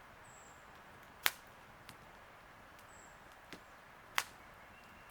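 A few sharp, isolated clicks or snaps over a faint steady background, the loudest about a second in and another about four seconds in, with weaker ones between.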